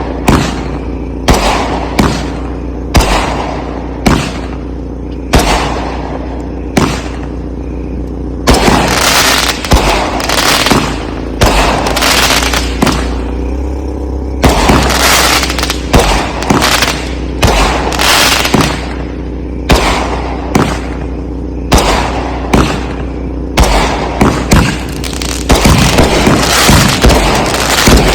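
Consumer aerial fireworks going off as a rapid string of loud booms, about one a second, thickening in two stretches into dense, overlapping bursts.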